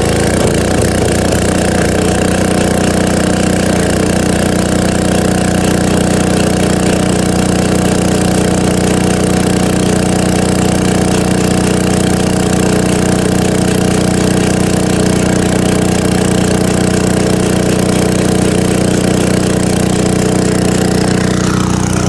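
Small gasoline engine of an old Titan Industrial pressure washer running steadily at a constant speed, back in running order after sitting for over 30 years.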